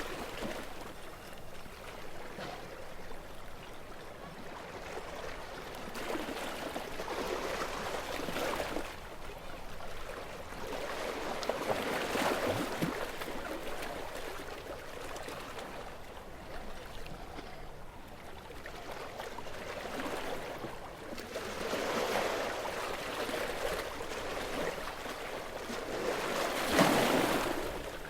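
Small waves of a calm sea washing onto the shore, a steady hiss of surf that swells and fades every few seconds, with the biggest surge near the end.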